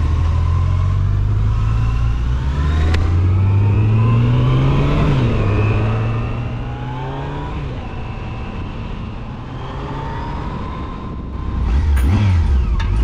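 Motorcycle engine under acceleration, its pitch climbing, dropping at a gear change about five seconds in, then climbing again before easing off and getting quieter. Music comes in near the end.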